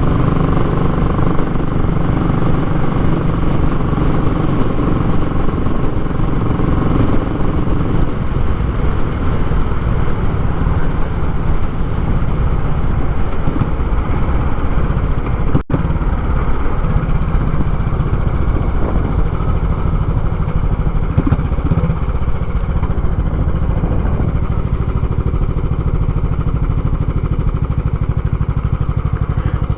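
Royal Enfield Classic 500's 499 cc single-cylinder engine running steadily through a short, raw-sounding muffler, with an even thump. The sound drops out for an instant about halfway through.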